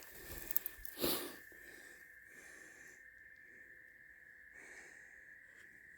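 Quiet outdoor ambience with a faint, steady high-pitched tone throughout. A few faint clicks are followed about a second in by a short rush of noise.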